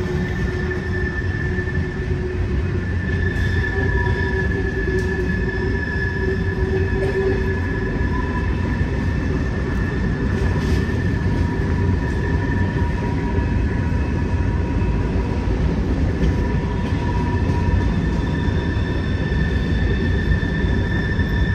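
Freight train cars rolling past: a steady low rumble of wheels on rail, with long, drawn-out high-pitched wheel squeal held through the passage as the cars take the curve.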